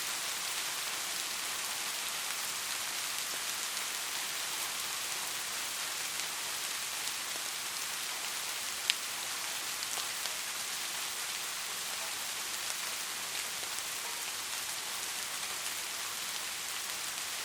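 Light rain falling steadily: an even hiss with faint scattered drop ticks, and one sharper tick about nine seconds in.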